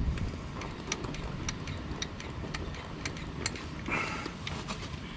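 Scattered small clicks and ticks of hand work at a brake caliper's bleed screw, with a vacuum brake bleeder drawing on it, and a brief hiss about four seconds in.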